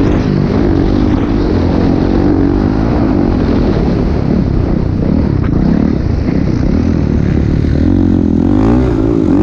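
Motocross bike engine running loud, its pitch rising and falling as the throttle is worked, with the swings strongest near the end.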